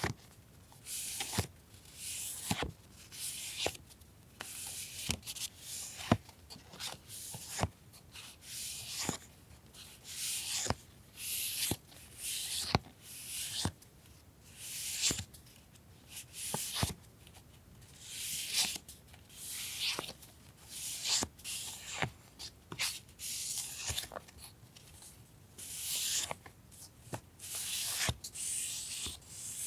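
Paper goods being handled on a desk: repeated short rustles and slides of paper sheets, about one every second, with sharp little taps and clicks in between.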